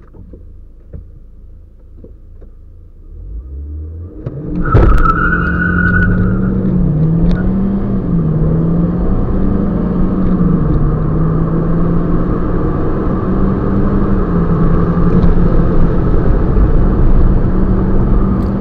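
Car four-cylinder petrol engine, heard from inside the cabin, idling for about four seconds, then pulled away hard at full throttle through the gears in a 0–100 km/h acceleration run. The engine note dips briefly at each gear change, and there is a short high squeal just as it launches.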